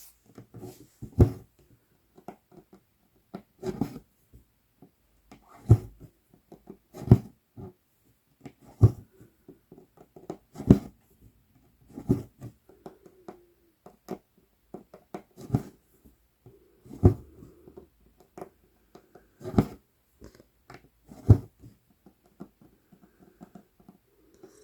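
A size 24 tapestry needle pushed through 11-count Aida cloth and the floss drawn through after it, stitch after stitch. Each stitch makes a short, sharp pop about every one and a half to two seconds, with faint rustling of thread and fabric in between.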